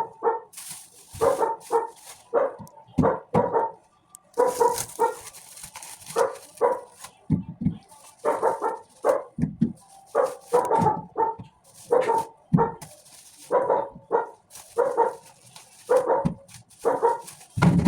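A dog barking over and over, short sharp barks about one to two a second.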